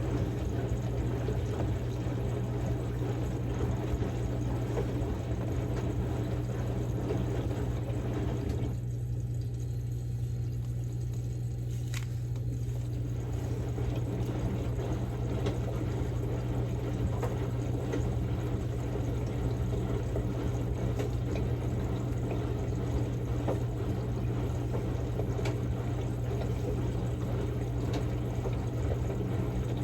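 Samsung Grande washing machine on a quick-wash cycle with a padded jacket in the drum: water sloshing and splashing over a steady motor hum. The sloshing drops away for a few seconds about nine seconds in, then resumes.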